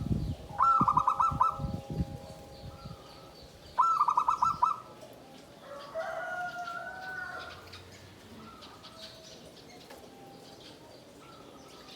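Zebra dove (perkutut) singing: two phrases of rapid, repeated coo notes about three seconds apart, followed by a softer, lower call.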